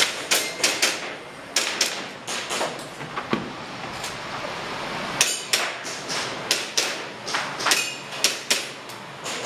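Airsoft pistol shots fired in quick irregular strings, about twenty sharp cracks, with a pause of nearly two seconds in the middle.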